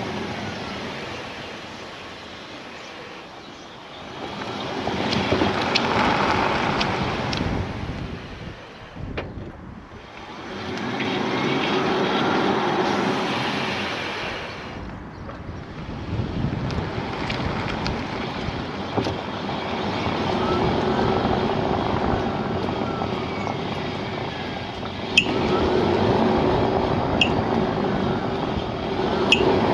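Tesla Model S P85D on the move: road and tyre noise swelling and fading, with a few sharp clicks scattered through it, clearest near the end. It is an unexplained clicking from the rear of the car.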